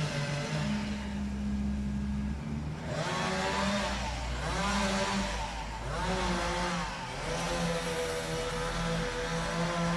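An engine running and revving up and down several times, its pitch rising and falling in repeated sweeps.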